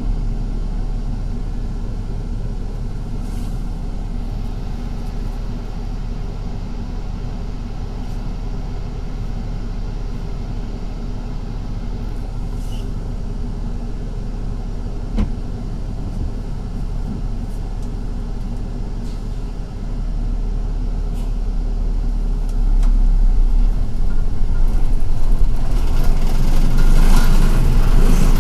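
A city bus running, heard from inside: a steady low engine and road rumble with one sharp knock about halfway through. It grows louder in the last third.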